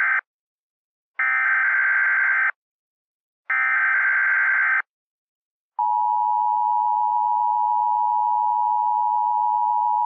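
Emergency Alert System tones: the end of one harsh, buzzing SAME header data burst, then two more bursts with about a second of silence between each. About a second after the third burst, the steady two-tone EAS attention signal starts and holds.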